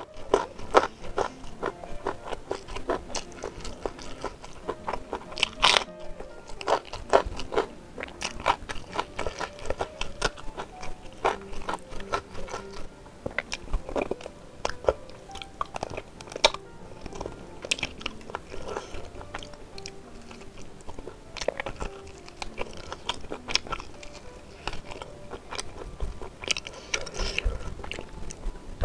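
Close-up eating sounds: a person biting and chewing spicy beef rib meat and rice, with dense, irregular wet mouth clicks and smacks throughout.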